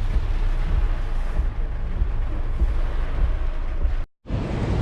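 Typhoon wind buffeting the microphone with a steady rush of wind and rain, broken by a brief dropout to silence about four seconds in.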